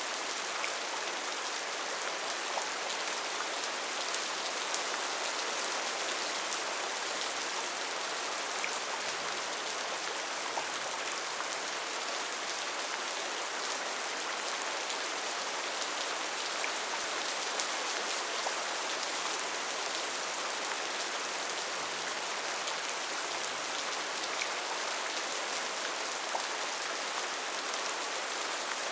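Steady rain falling on a tin roof: an even hiss with individual drops ticking on the metal here and there.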